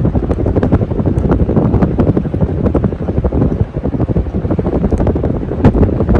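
A 52-inch Hunter Low Profile II ceiling fan running, its airflow hitting the microphone as loud wind noise, with scattered clicks.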